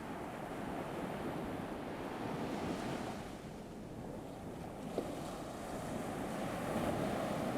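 Ocean waves washing ashore: a steady rush that swells, eases a little about halfway through, and builds again near the end, with a small click about five seconds in.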